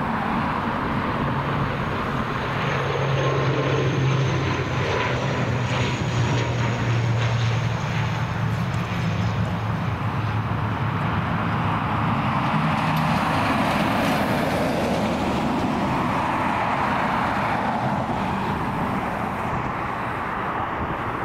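ATR 72 twin-turboprop airliner's engines and propellers droning steadily. A low propeller hum fades after about halfway, under a faint, slowly falling whine.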